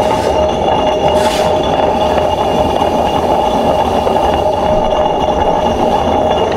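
Tilting-top table wet grinder running steadily: an even motor whir with a constant hum tone throughout.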